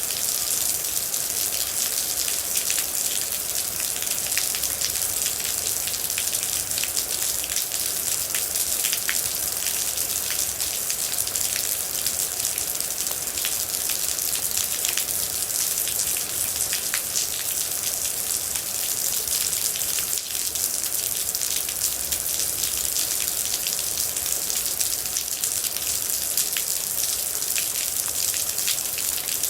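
Steady rain, a dense even hiss with many individual drops ticking sharply on a hard surface.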